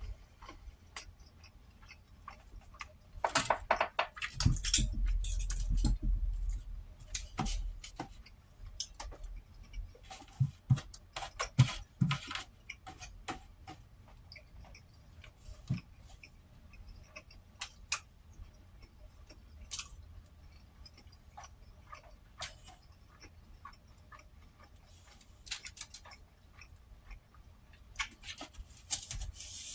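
Eating sounds: chewing with scattered small clicks and taps. A louder, low rumbling stretch comes about four to seven seconds in.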